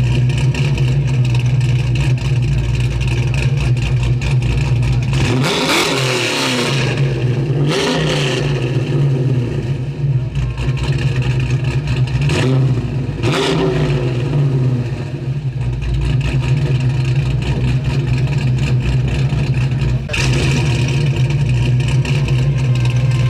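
Car engine idling, revved up a few times with rising and falling pitch, most clearly about six and thirteen seconds in.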